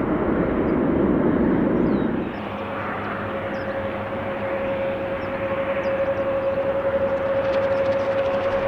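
Airplane engine noise: a loud rushing roar that drops off suddenly about two seconds in, followed by a steady engine whine that grows louder.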